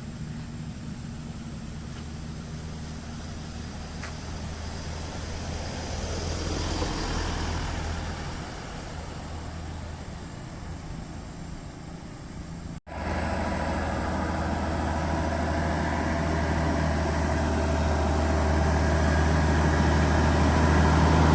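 Heavy truck's diesel engine running steadily with a low hum. It breaks off abruptly about two-thirds of the way through, then comes back louder and keeps growing louder toward the end.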